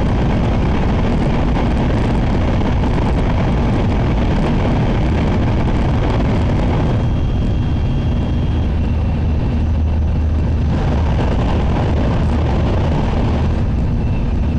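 Shinkansen bullet train running at speed, heard inside the passenger cabin as a steady rumble and rush of noise. About seven seconds in, the higher hiss eases and a low hum comes forward.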